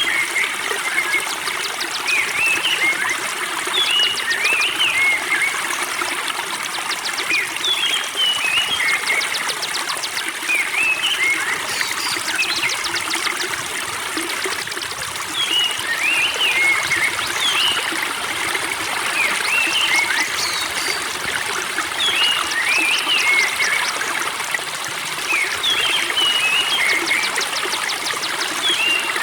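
Spring water trickling steadily, with a small songbird's short chirping phrases coming back every few seconds over it.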